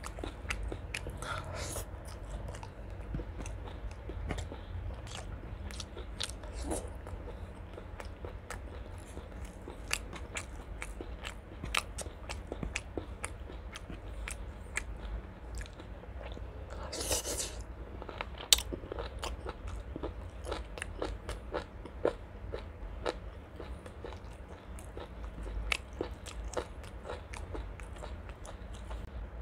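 Close-miked chewing of chicken liver and gizzard curry with rice: wet mouth clicks and crunching throughout, with a short breathy noise about seventeen seconds in.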